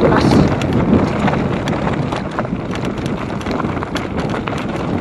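Mountain bike descending a rough, wet trail: the frame and chain clatter with many irregular sharp clicks over bumps, under steady wind rushing on the microphone.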